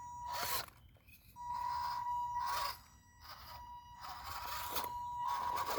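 MN82 RC rock crawler's small electric drive motor and gearbox whining as it is driven over rocks: a steady high whine that drops out briefly near the start, with stop-start bursts of drivetrain noise.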